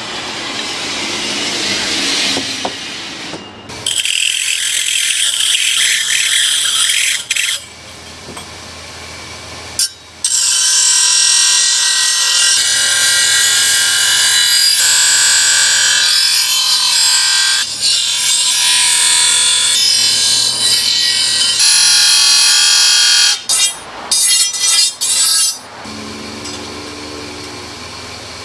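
A power tool cutting or grinding in several runs of a few seconds each, with a high-pitched whine over a hiss, then a few short bursts near the end.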